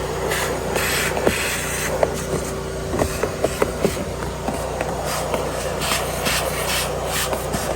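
Wet/dry shop vac running steadily, sucking up leftover water and dirt. The rush of air through the nozzle swells and fades as it moves, with small knocks as the nozzle bumps surfaces.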